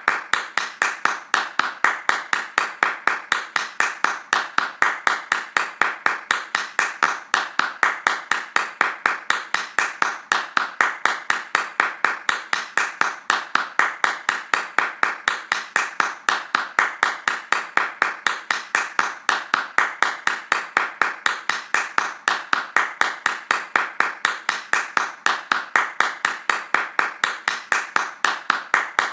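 Hand clapping in a fast, steady rhythm, about three claps a second.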